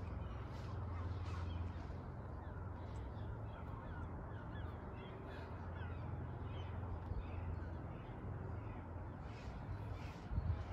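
Faint bird calls, short chirps scattered throughout, over a steady low hum.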